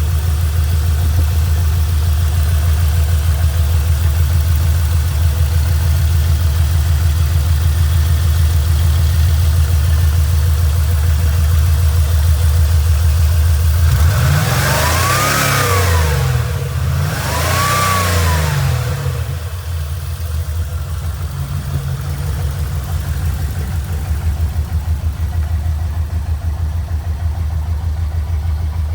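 A 1984 GMC Sierra 1500's swapped-in Corvette L98 5.7-litre V8 idling steadily. About halfway through it is revved twice, the pitch rising and falling each time, then it settles back to idle.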